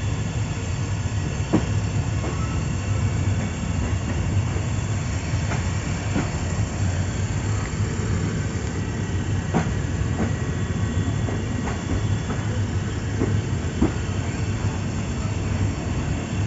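Thai express passenger train running on the rails through the station yard, heard from aboard. A steady low rumble is broken by irregular sharp clacks of the wheels over track joints.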